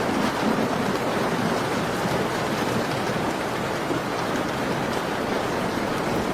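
Steady rain falling, an even hiss, with a few faint ticks.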